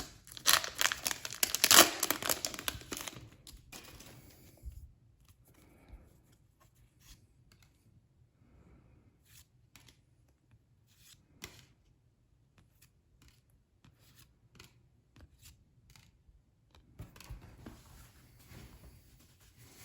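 Foil booster pack wrapper being torn open and crinkled, loud for the first few seconds. This is followed by scattered faint clicks and taps, and crinkling starts again near the end.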